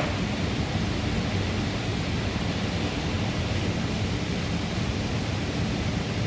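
New Holland CR 8.90 combine running during corn harvest, heard as a steady even rushing noise over a low, constant hum.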